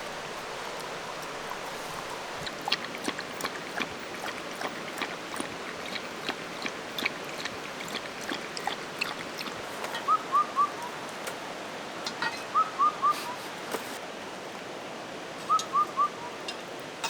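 Campfire crackling with scattered sharp pops over a steady hiss. In the second half a bird calls a quick three-note whistled phrase, three times.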